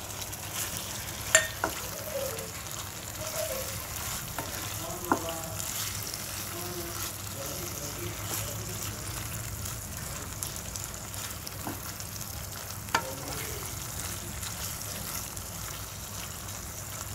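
Prawns sizzling as they fry in a thick roasted masala in a pan, stirred with a wooden spatula that knocks sharply against the pan a few times.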